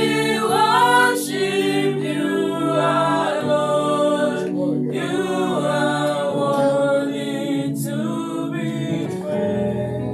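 A choir singing a worship song a cappella.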